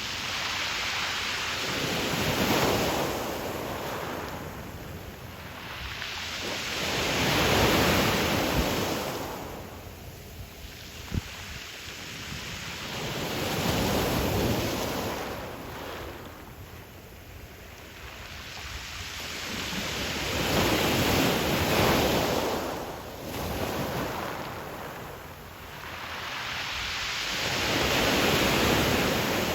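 Ocean waves breaking and washing back on a pebble beach, swelling and fading in slow surges about every six to seven seconds. There is a brief click about eleven seconds in.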